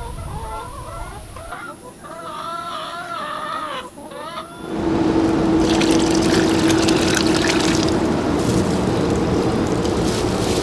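Chickens clucking and calling in short wavering calls for the first four seconds or so. Then a louder steady mechanical noise with a constant low hum takes over.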